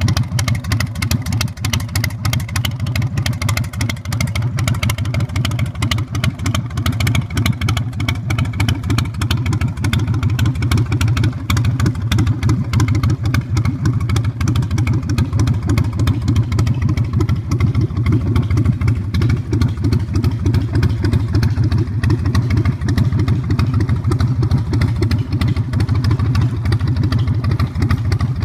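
Carbureted 117 cubic inch S&S V-twin of a 2005 Big Dog Pitbull chopper running steadily at idle through its custom exhaust, a deep even pulsing with no revs.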